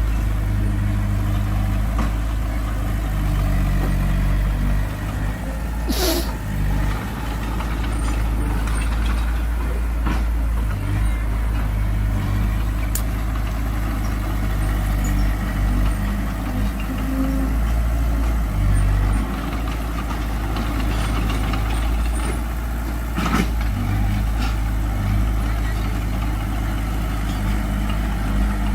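Heavy diesel earthmoving machinery running steadily, a deep engine rumble whose pitch shifts as it works. Two brief sharp noises stand out, about six seconds in and again about twenty-three seconds in.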